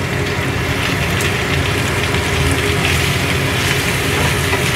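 Raw shrimp sizzling as they are tipped into hot oil in a stainless steel frying pan with chopped pickled mustard greens; the steady crackling sizzle grows a little louder about a second in.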